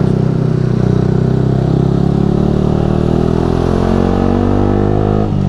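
Yamaha R15 V3's single-cylinder 155 cc engine running at steady throttle through a Ronin Musashi aftermarket exhaust. The engine note dips briefly near the end.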